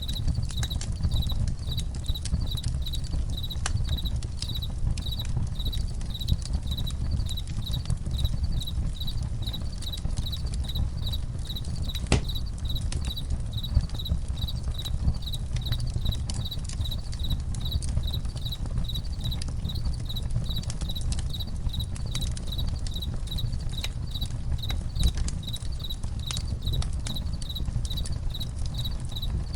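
Campfire crackling, with scattered sharp pops over a low steady rumble and one louder pop about twelve seconds in. Crickets chirp in an even, fast pulsing rhythm over it.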